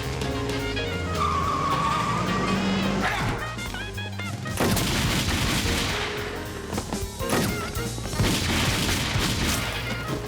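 Dramatic background music, then from about halfway a loud stretch of noisy action sound with many sharp crashes and impacts over it.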